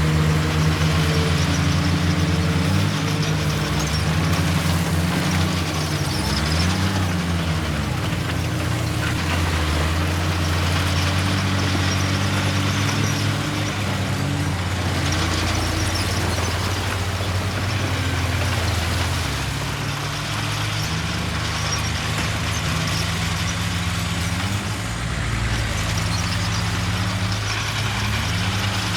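Heavy diesel engines of a bulldozer and dump trucks running, a steady low drone whose pitch rises and falls briefly several times as the engines are revved.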